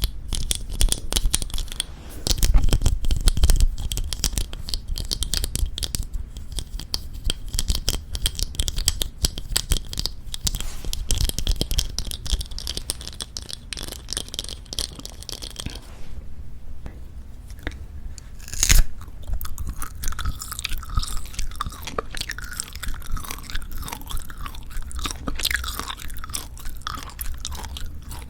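Close-miked chewing of Jeju black pork jerky: dense, irregular, crackly mouth and chewing sounds, with one sharp click about two-thirds of the way in.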